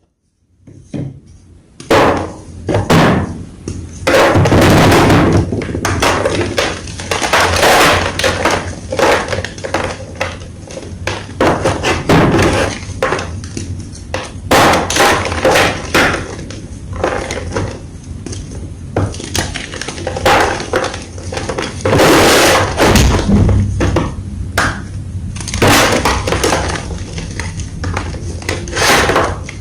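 Blocks of white gym chalk being crushed by hand, a dense run of crisp crunches, snaps and crumbling.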